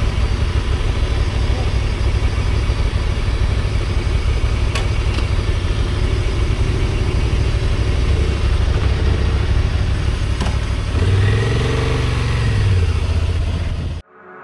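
Motorcycle engine running under way, with the revs rising and then falling again about eleven seconds in.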